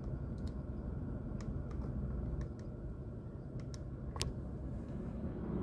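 Low, steady rumble inside a car with the engine running, with a few small scattered clicks, the sharpest about four seconds in.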